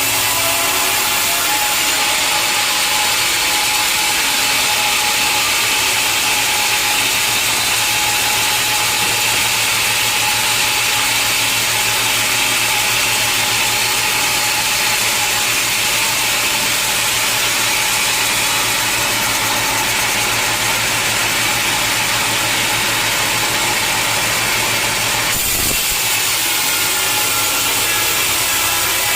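Sawmill blade cutting steadily through a large log: a continuous high rasp of the saw in the wood over the steady hum of the mill's motor, with a single knock near the end.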